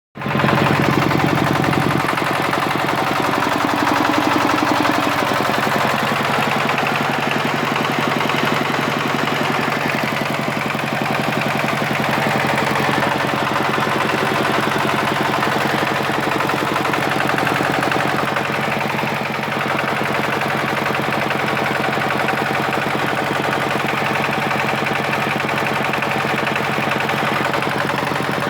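Diesel engine running steadily at a constant speed, its rapid, even firing pulses giving a continuous clatter.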